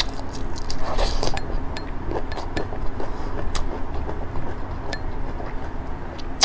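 Close-miked eating: a mouthful being chewed with wet mouth clicks and several sharp clicks, a cluster of them about a second in. A steady low hum runs underneath.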